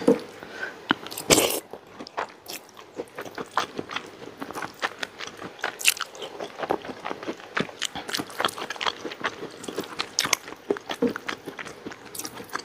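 A person chewing and crunching a handful of rice with fried tempe and sambal, with irregular wet mouth clicks and smacks throughout. The sound is picked up by a clip-on microphone close to the mouth.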